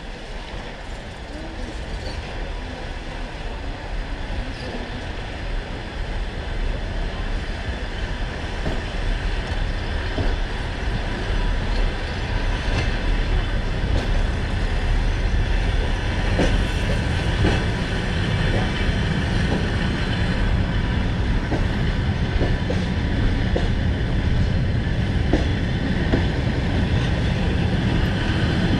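Passenger train carriage rolling out of a station, its wheels and running gear on the rails growing steadily louder as the train picks up speed. A few faint clicks of the wheels come through from about halfway.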